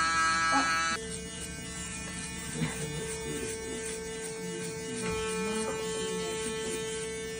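Barber's electric hair clippers running with a steady buzz, the tone shifting about a second in and then holding steady, as a skin fade is cut.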